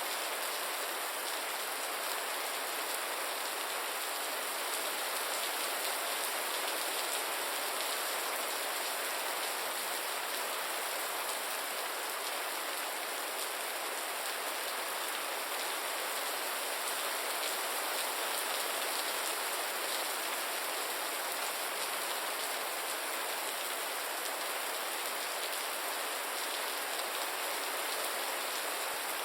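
Gentle rain falling steadily, an even, unchanging hiss of many drops with no thunder or single louder drips.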